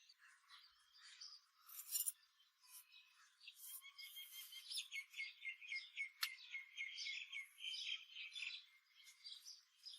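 Faint bird chirping: a run of quick, repeated chirps through the middle, with a few scattered light clicks before it.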